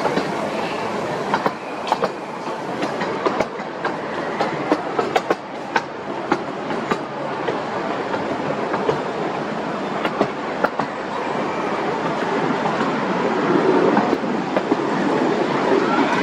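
Vintage amusement-park train running along its track: a steady rumble of wheels on rail, with irregular sharp clicks as the wheels pass over rail joints.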